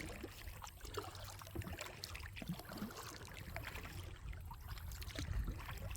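Kayak paddle strokes: the blades dip and pull through the creek water, with dripping and small irregular splashes over a steady low rumble.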